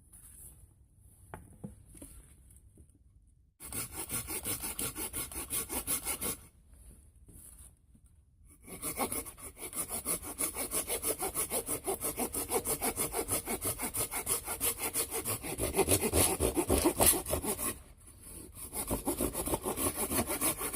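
Hand saw cutting through wood with quick, even back-and-forth strokes. It comes in three bouts: a short one a few seconds in, a long one through the middle, and a short one near the end.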